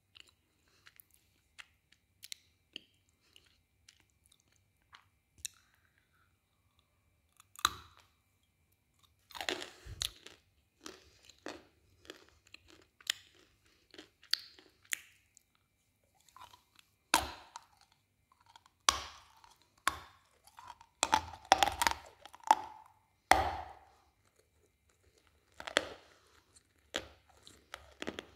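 Close-up biting and chewing of a hard white chunk. Faint mouth clicks at first, then sharp crunches from about eight seconds in, coming thick and loud in the second half.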